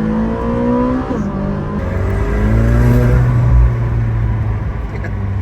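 McLaren 765LT's twin-turbo V8 accelerating hard through the gears. The pitch climbs, drops sharply at an upshift about a second in, climbs again through the next gear, then steadies.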